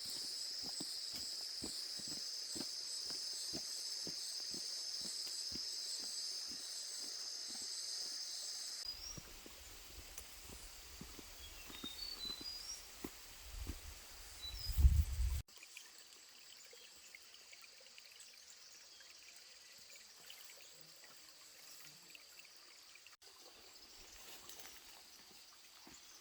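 Outdoor countryside ambience in three cut segments. First a steady high insect drone with a quick regular ticking. Then a low rumble with a few short high chirps and a sudden loud burst. Then a faint, quiet background.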